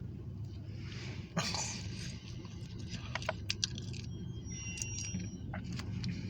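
Diesel locomotive engine idling with a steady low rumble. Sharp clicks and knocks come about a second and a half in and again around the middle, and a brief high squeal follows shortly after.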